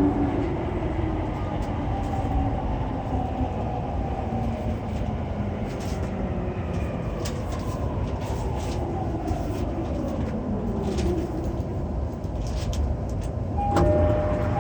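JR East E231-800 series electric train braking into a station, heard inside the car: the traction motor whine falls steadily in pitch over a running rumble as the train slows to a stop. Near the end a steady two-note tone starts.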